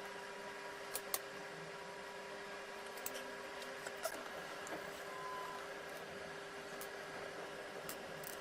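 A few light clicks and taps over a steady faint hum, the sharpest two close together about a second in.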